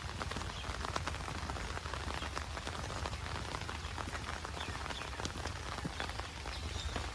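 Heavy monsoon rain falling steadily: a dense, even hiss with many separate drops ticking sharply on nearby surfaces.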